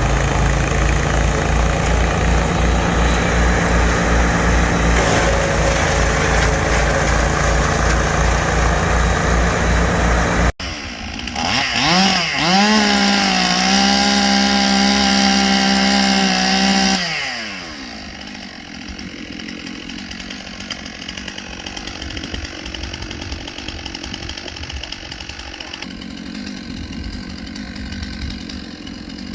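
Two-stroke chainsaw idling with a steady low pulsing for about ten seconds. After a cut it revs up sharply, holds at full throttle for a few seconds, then drops back and runs much quieter.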